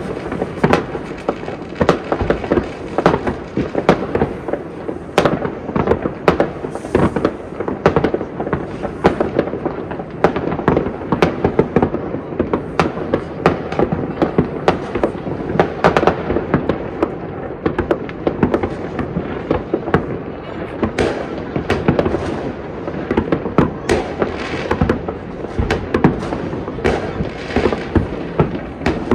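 Fireworks going off in many places across a city at once: a dense, unbroken stream of overlapping bangs, pops and crackles with no pause.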